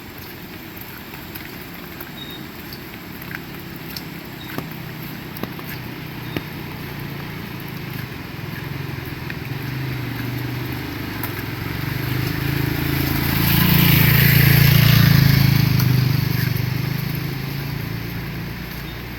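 A motor vehicle's engine approaching, passing close by and fading away over rain, its hum swelling to a peak about two-thirds of the way through. Sharp drip ticks land now and then throughout.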